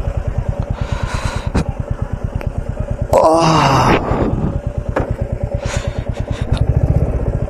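Royal Enfield Bullet's single-cylinder engine running as the motorcycle rides along, a steady train of rapid, evenly spaced exhaust pulses.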